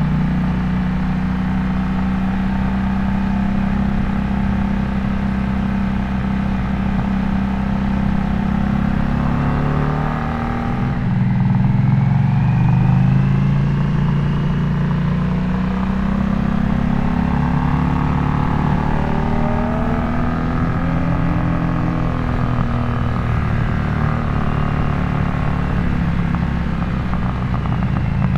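Harley-Davidson Nightster's V-twin engine running through a Jekill & Hyde adjustable valve exhaust while riding, its note rising twice as the bike accelerates and dropping back between.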